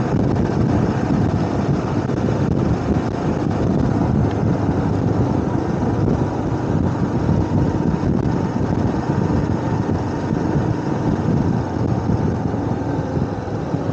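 Motorcycle running steadily at road speed, its engine and road noise mixed with wind rush over a helmet-mounted lavalier microphone in a wind muff.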